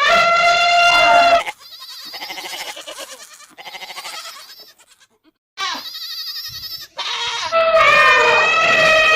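A series of animal calls, bleat-like in kind. A steady, held call opens, then a quavering stretch of rapid wavering pulses. After a brief pause, a long call near the end bends up and down in pitch.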